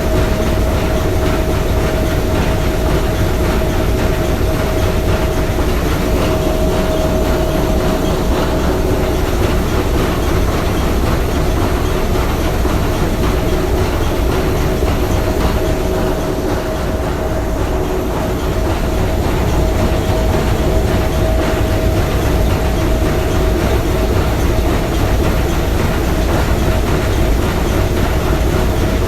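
Three-cylinder triple-expansion marine steam engine running steadily, a dense mechanical clatter with a steady tone running through it.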